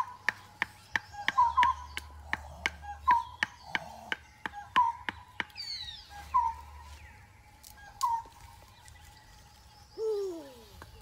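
A bird repeating a short chirp about every second and a half over the crackling of a small twig fire. A falling high call comes about halfway through and a lower falling cry near the end.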